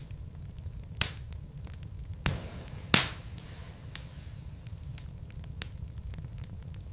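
Wood logs burning in a fireplace: scattered crackles over a steady low rumble of the fire, with three louder, sharp pops between about one and three seconds in.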